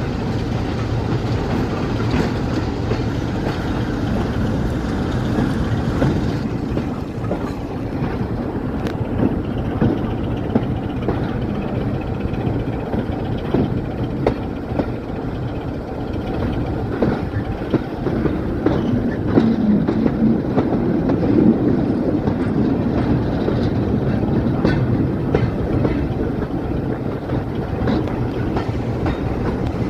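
A train running along the track, with a steady rumble and irregular clicks of the wheels over the rail joints.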